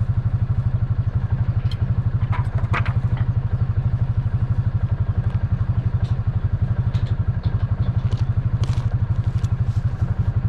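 Kioti DK5010 tractor's diesel engine running steadily with an even, rapid pulse, with a few light clicks and clatters a couple of seconds in.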